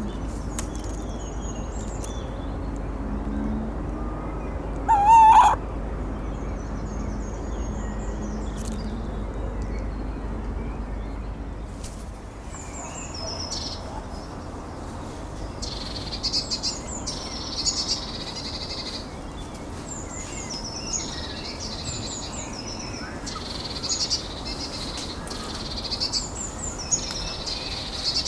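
Woodland birds in a night-to-dawn field recording. At first a low steady hum, one loud short call about five seconds in and faint high calls. About twelve seconds in the recording changes, and a small songbird sings short high phrases over and over.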